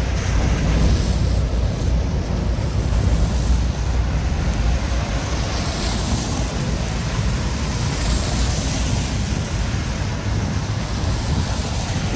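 Storm wind buffeting the microphone in a steady low rumble over an even wash of rain and street noise.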